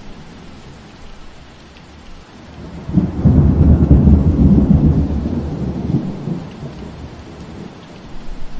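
Steady rain hiss with a roll of thunder: a deep rumble breaks in sharply about three seconds in, swells for a few seconds and dies away before the end.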